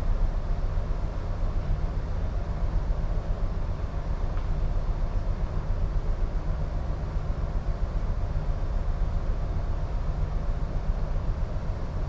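Strong wind buffeting the microphone as a steady, fluctuating low rumble, over a constant low hum of the ship's machinery.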